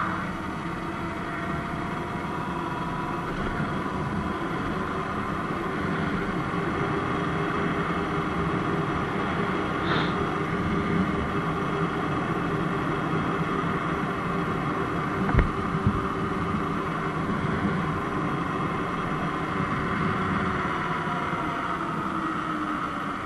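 Surron X Light Bee electric dirt bike riding along a dirt road: a steady electric motor whine over tyre and wind noise, with a short knock about fifteen seconds in.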